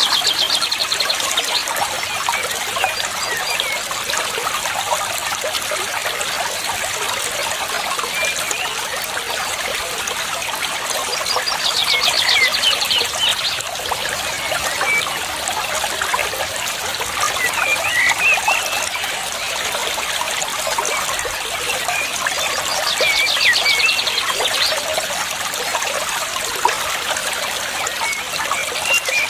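Water trickling steadily. A short, rapid trill sounds about every eleven seconds, with brief bird chirps scattered in between.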